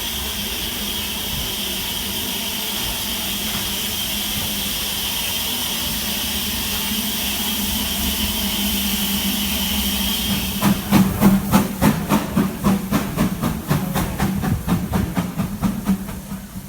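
Steam locomotive hissing steadily, then, about two-thirds of the way through, a quick run of sharp exhaust beats, several a second, with a low hum under them.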